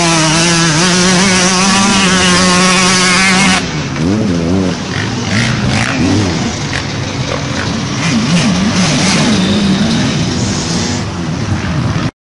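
Kawasaki KX125 motocross bike's 125cc two-stroke single running hard at a steady high rev, then, after a sudden change about three and a half seconds in, revving up and down again and again as it is ridden.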